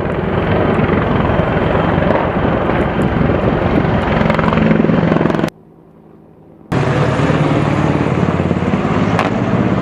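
AH-64 Apache helicopter rotor beating in a fast, even pulse. The sound drops away for about a second midway, then comes back at full strength.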